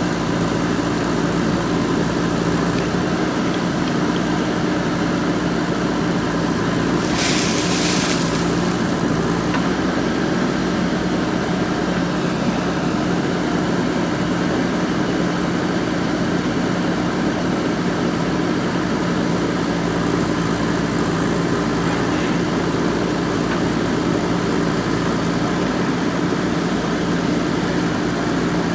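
Four-cylinder diesel engine of a JCB 3DX backhoe loader running steadily, with a brief hiss about seven seconds in.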